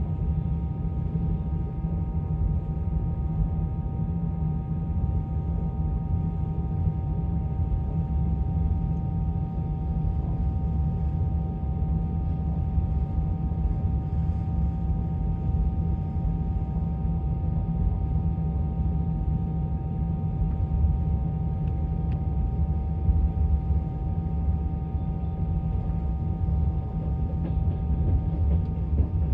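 Passenger train running, heard from inside the carriage: a steady low rumble of the running gear with a constant high hum over it.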